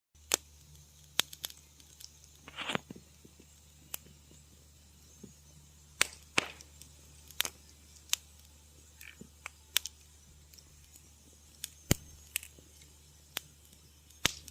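Wood fire crackling in a fireplace: irregular sharp snaps and pops over a low steady rumble, with a longer hissing crackle about two and a half seconds in.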